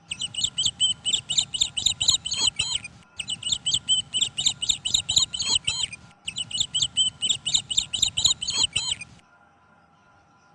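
Lovebirds chirping: three bouts of rapid, high-pitched chirps, each about three seconds long with short breaks between them, stopping about nine seconds in.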